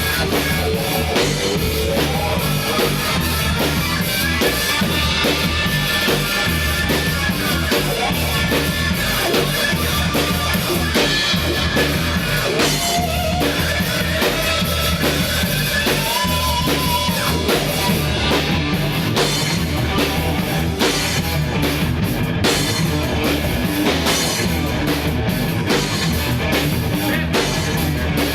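Rock music from a three-piece jam band playing steadily, with drum kit and guitar; held guitar notes stand out now and then.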